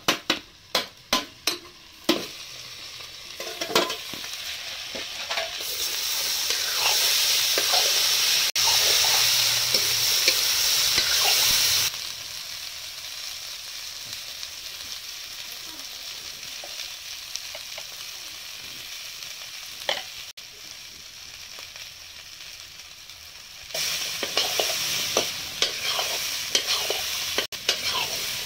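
Jackfruit seeds sizzling in oil in a metal kadai, with a metal spatula tapping and scraping the pan as they are stirred. The sizzle swells loud for several seconds, then settles to a steady lower hiss, and the spatula clatter picks up again near the end.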